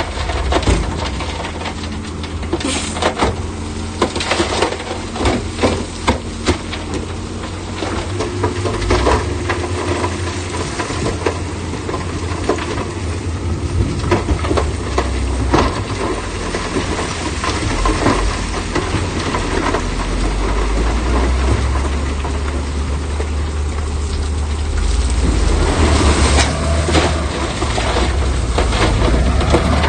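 Heavy earth-moving machinery's engine running steadily, with repeated knocks and clatter that are densest in the first few seconds and again near the end, when the engine also grows louder.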